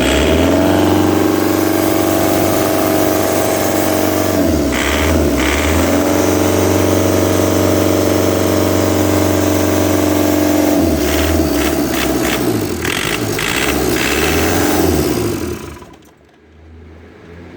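Hyundai/Kia D4CB 2.5-litre four-cylinder common-rail diesel engine running. It is revved up and held twice, dropping back to a rough, clattering idle in between. Near the end it cuts off.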